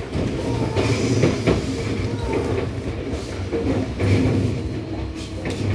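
Interior running sound of a Seibu 6000 series EMU motor car with Toshiba IGBT inverter control, at steady speed: a rumble with a steady hum from the traction equipment and a few sharp wheel clacks over rail joints.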